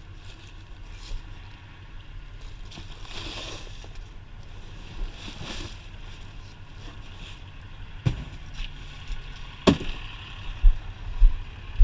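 Scrap being handled in a dumpster: two sharp knocks about eight and nine and a half seconds in, with dull thumps near the end, over a steady low rumble.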